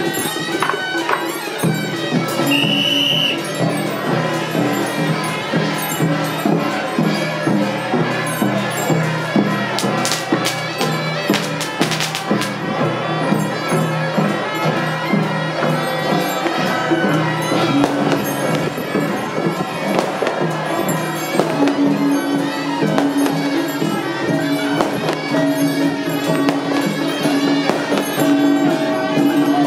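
Traditional Taiwanese temple procession music: shrill reed horns in the manner of the suona playing over busy, clashing percussion, with a few sharp cracks about ten to twelve seconds in.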